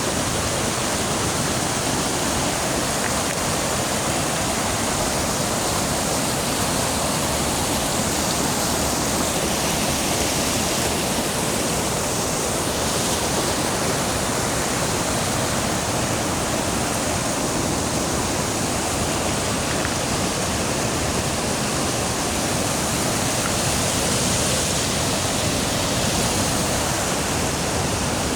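Snowmelt water flowing fast in a stream, a loud, steady rush of water that doesn't change.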